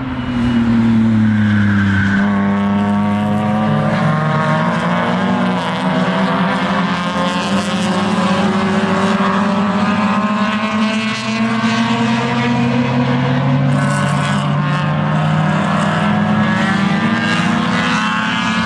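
A pack of race cars going by at race pace, several engines at high revs heard at once and overlapping without a break. Their pitch falls as the first cars pass, then slowly climbs as more keep coming.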